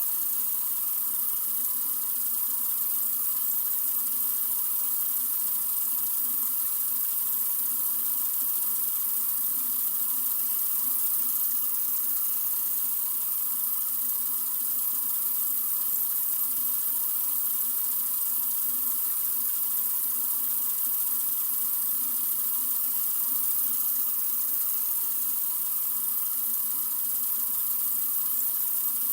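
Sink faucet running steadily, a continuous even stream of water.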